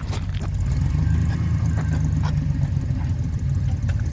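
1969 Jeep Willys CJ5's engine running steadily with an even low note.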